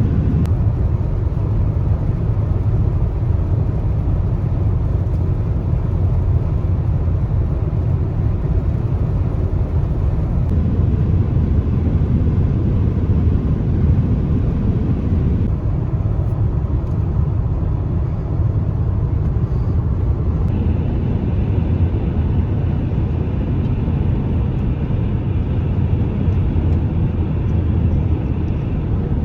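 Car driving, with a steady low rumble of road and engine noise. A faint high tone joins about two-thirds of the way through.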